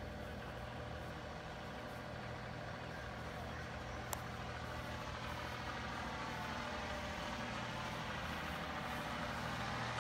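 Tractor engine running steadily, growing a little louder toward the end, with one sharp click about four seconds in.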